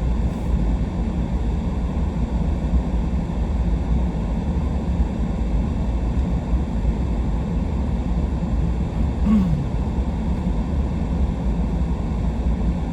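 Truck driving slowly, heard from inside the cab: a steady low rumble of engine and tyres. A short falling tone comes about nine seconds in.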